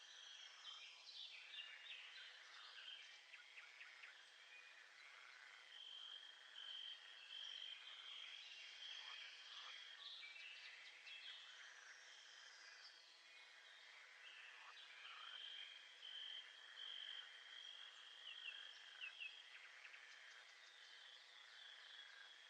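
Faint nature ambience: a steady high insect trill that stops and starts, with scattered bird chirps and a few falling whistled calls over it.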